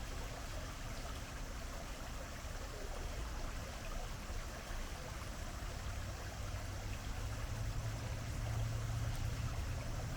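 Creek water running steadily over its bed beneath a footbridge, an even, continuous rush. A low hum comes in during the second half.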